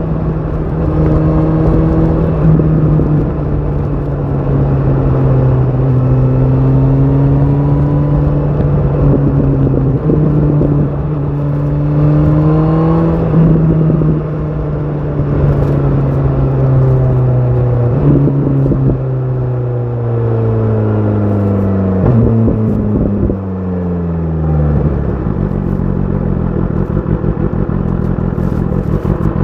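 BMW S1000 RR's inline-four engine through an Akrapovic exhaust, running under way with its pitch stepping up and down through gear changes. About two-thirds of the way in, the revs fall in several steps as the bike slows, and the engine settles to a lumpy idle for the last few seconds.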